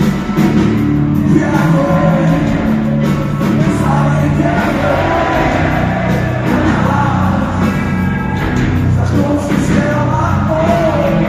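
Rock band playing a song with distorted guitars and drums, with a sung vocal line coming in about four seconds in.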